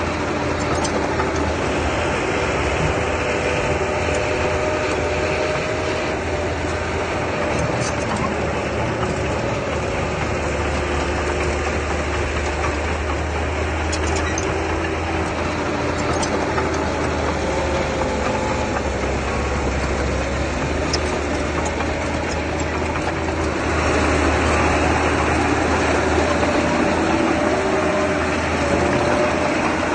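Diesel engine of a mini bulldozer running steadily, growing louder about 24 seconds in, with a few faint clicks.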